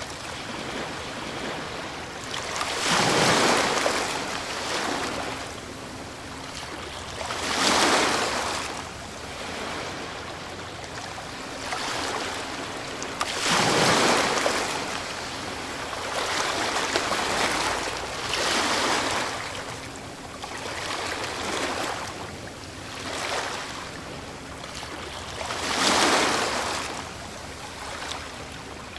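Ocean waves breaking: about seven surges of surf several seconds apart, each rising to a rushing crash and falling back to a steady hissing wash.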